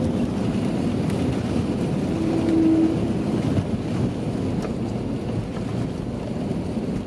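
Airbus A320neo cabin noise: a steady low rumble of engines and airflow heard from inside the cabin, with a short steady hum between about two and three seconds in.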